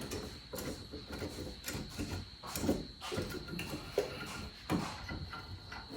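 Irregular knocks, clinks and scrapes of tools and engine parts being handled during an engine teardown, over a faint steady high-pitched whine.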